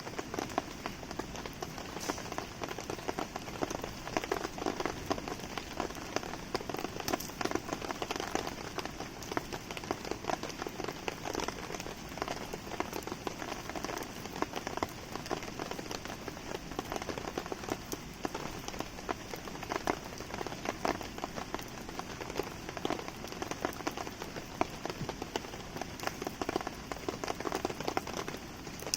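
Steady rain pattering in dense, irregular drops, mixed with a wood campfire crackling.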